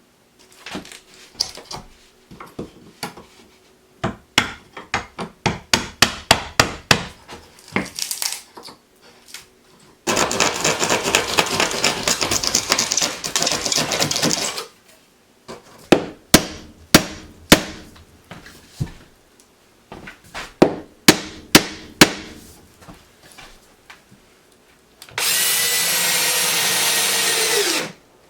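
Work on a binding door: runs of sharp taps and knocks, a power driver buzzing and rattling for about four seconds, more knocks, then a drill whirring for about three seconds near the end and winding down.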